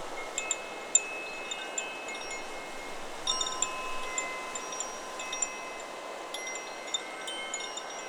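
Chakra Chimes 'Solar Plexus' wind chime ringing in the wind: scattered clusters of strikes with long ringing tones, busiest just after the start, a little past three seconds in, and again from about six to seven and a half seconds. A steady wind hiss runs underneath.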